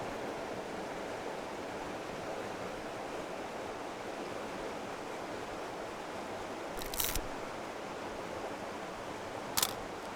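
River water flowing steadily, with two brief sharp sounds, one about seven seconds in and one about nine and a half seconds in.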